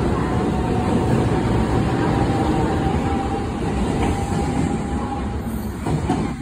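Electric train pulling out of a station platform: a steady rolling rumble of the cars with a faint steady whine above it, growing quieter near the end as the train moves away.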